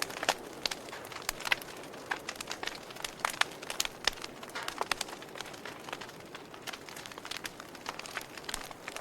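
Wood fire in a fireplace crackling, with frequent sharp, irregular pops and snaps over a soft steady hiss.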